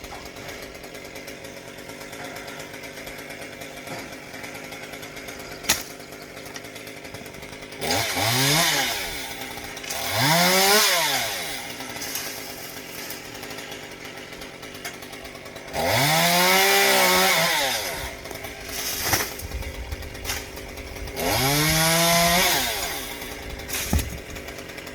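Two-stroke gas chainsaw idling, revved up four times. Each time the pitch sweeps up, holds for a second or two, then drops back to idle.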